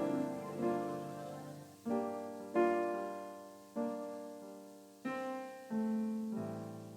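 Electronic keyboard with a piano sound, improvising: chords struck roughly once a second, about seven in all, each sounding sharply and then fading before the next.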